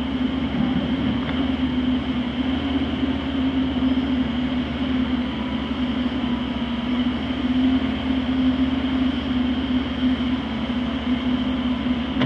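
Heavy equipment's diesel engine running steadily close by, a constant low drone that doesn't change.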